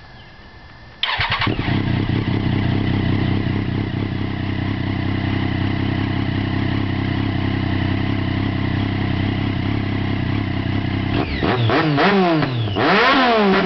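Triumph Daytona 675 inline-three engine, breathing through a Two Brothers Racing M5 exhaust with its dB killer fitted, starts about a second in and settles to a steady idle. Near the end it is revved several times, the pitch rising and falling with each blip.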